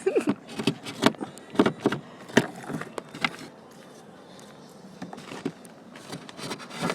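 A stick knocking and scraping against the inside of a truck door and its lock, a string of sharp clicks and taps over the first three seconds or so, then only a few faint taps.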